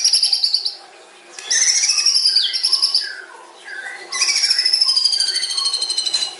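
White-rumped shama (murai batu) singing long phrases of fast repeated notes, each sliding slowly down in pitch, with short lower notes between the phrases. The last and longest phrase starts about four seconds in.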